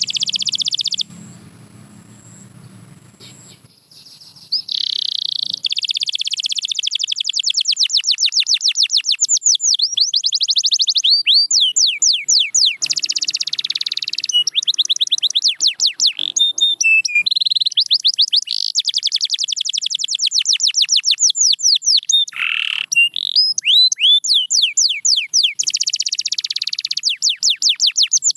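Domestic canary singing in long, fast trills of rapidly repeated high, sweeping notes, broken by a pause of a few seconds near the start.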